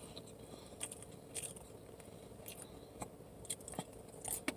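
Faint mouth sounds of someone chewing a breakfast sandwich: scattered small wet clicks and smacks.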